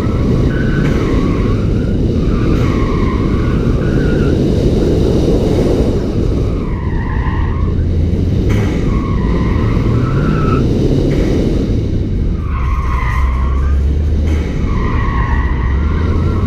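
2014 Ford Fiesta ST's turbocharged 1.6-litre four-cylinder, with an aftermarket Cobb exhaust, pulling and easing off in quick succession during an autocross run. Its Falken Azenis RT-615K tyres squeal again and again through the corners, about six times, each squeal lasting around a second.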